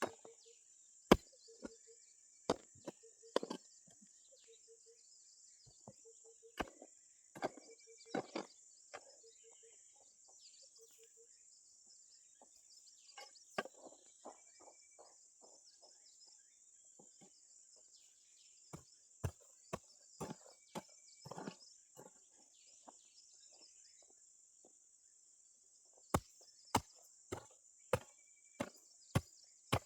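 Chopping strikes from a hand tool, coming in irregular groups with pauses between, then a steady run of about six blows near the end. Insects keep up a constant high drone underneath.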